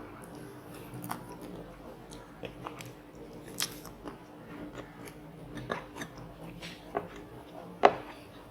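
Mouth sounds of eating up close: biting and chewing crunchy batter-fried squid, with irregular crunches and one loud crunch near the end.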